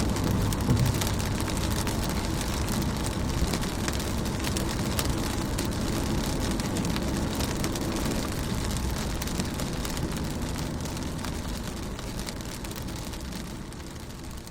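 Steady rain falling on a car, an even hiss studded with many sharp individual drop taps. It fades gradually over the last few seconds.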